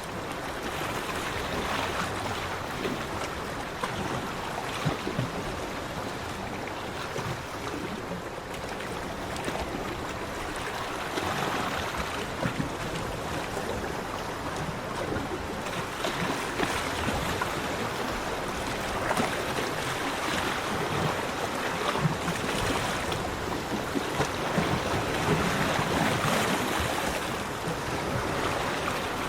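Sea waves breaking and washing onto a beach: a continuous rush of surf that swells and eases every few seconds.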